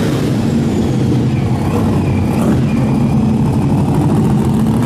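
Car engine running steadily with a low rumble as the car drives off.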